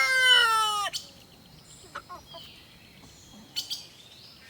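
Rooster crowing: the long final note of the crow, held and slowly falling in pitch, ends about a second in, followed by a few faint brief sounds.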